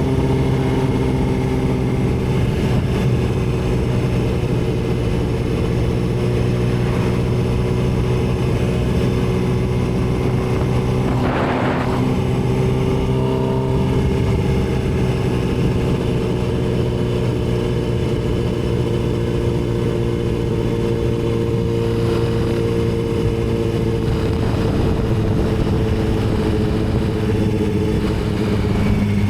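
Yamaha R6 inline-four sport-bike engine running at steady cruising revs under way, its pitch drifting slowly up and down. About eleven seconds in there is a brief rush of noise.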